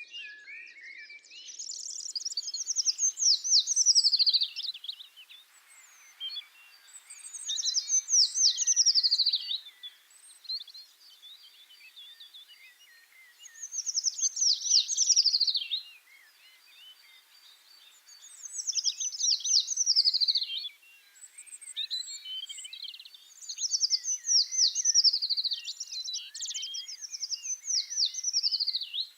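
A songbird singing the same phrase over and over: a quick series of descending notes lasting about two seconds, repeated roughly every five seconds, with fainter chirps in between.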